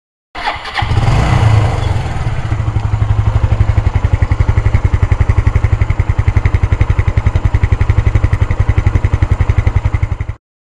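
Suzuki Marauder motorcycle engine starting: a brief clatter as it cranks and catches, a short rise in revs, then settling into an even, rapidly pulsing idle. It cuts off suddenly near the end.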